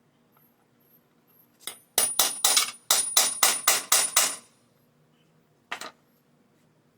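Hammer blows on a grommet setting tool, driving a metal grommet through a leather belt. A light tap comes first, then a quick run of about ten sharp blows at roughly four a second with a faint high metallic ring, and a single lighter blow near the end.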